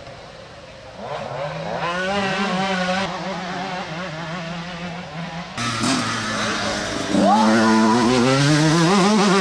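Motocross bike engines revving up and down on the track, one bike getting louder with a sharp rise in revs about seven seconds in.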